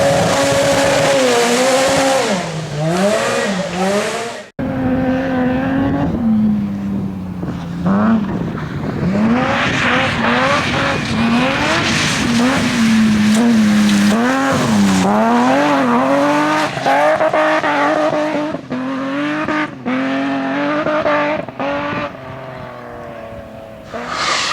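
Rally car engines at full throttle, the pitch climbing and dropping again and again through gear changes. There is an abrupt cut about four and a half seconds in, to another car.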